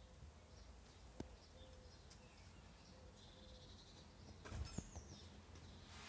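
Faint birdsong in quiet garden ambience: a few short high chirps and one quick falling whistle. Two small sharp clicks, one about a second in and one near the end, with a brief rustle just before the second.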